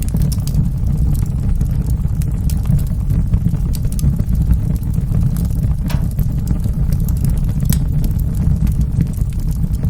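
Wood fire burning in a fireplace: a steady low rumble of the flames with scattered crackles and pops, two sharper pops in the second half.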